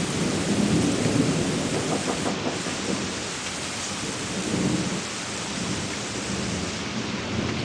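Steady rain falling during a thunderstorm, with low rolling thunder rumbling under it, swelling near the start and again about two thirds of the way through.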